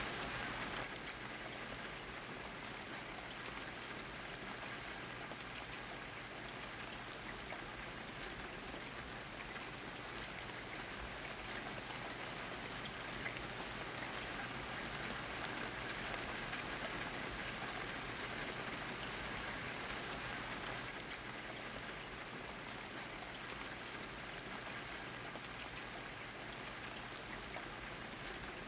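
Steady rain falling, a dense even patter of drops with no thunder, easing slightly about a second in.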